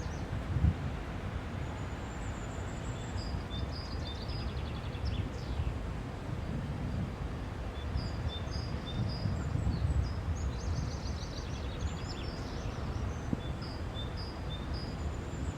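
A songbird singing the same short phrase of high notes and quick trills several times over, above a steady low rushing noise of wind or distant water, with a brief thump about a second in.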